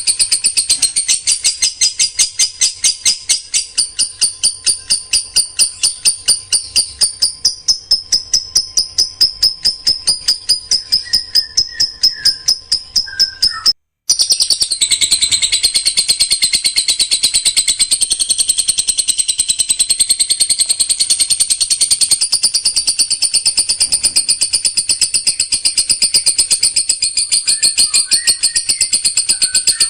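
A songbird repeating a rapid-fire train of harsh, high call notes, about five or six a second. This is the 'tembakan rapat' burst style used in masteran recordings for training birds. The train breaks off abruptly for a moment about halfway through, then carries on.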